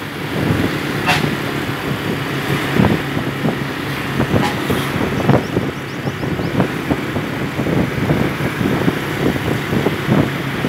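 Motorcycle engine running at a steady road speed, heard from the moving bike, with gusty wind noise on the microphone.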